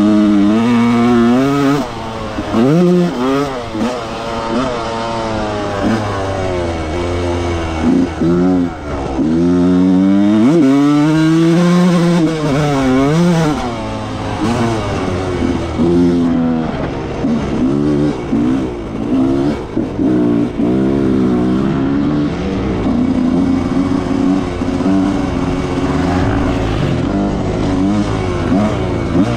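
1995 Yamaha YZ125's single-cylinder two-stroke engine ridden hard, its pitch rising and falling over and over as it is revved up through the gears and shut off. It is held high in the revs because it is a slow bike that has to be ridden hard to go anywhere.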